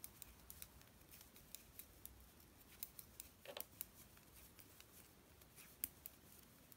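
Faint, irregular clicks and taps of two knitting needles as knit stitches are worked across a row.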